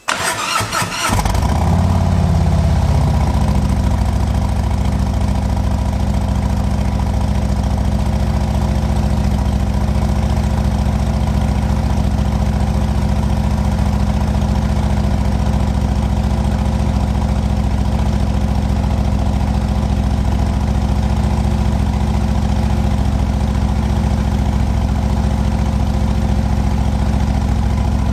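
A 2017 Harley-Davidson Ultra's Milwaukee-Eight V-twin, fitted with Two Brothers Racing slip-on mufflers, being started: it catches about a second in and then idles steadily.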